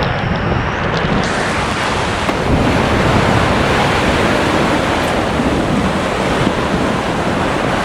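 Strong storm wind blowing hard across the microphone: a loud, steady rushing noise with heavy low buffeting.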